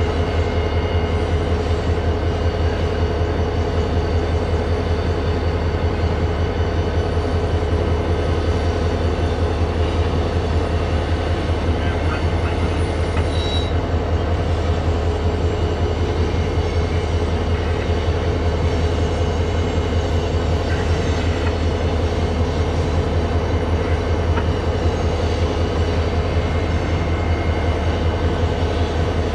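Loaded covered hopper cars of a heavy freight train rolling past, a steady low rumble of wheels on rail with no let-up.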